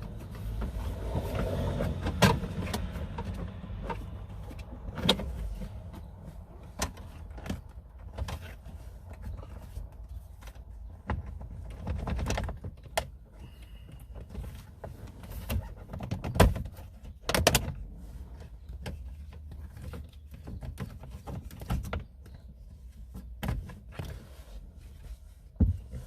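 Hand work taking apart the plastic steering-column cover around the ignition switch: scattered clicks, knocks and rattles of plastic trim and a screwdriver, with a low hum over the first few seconds.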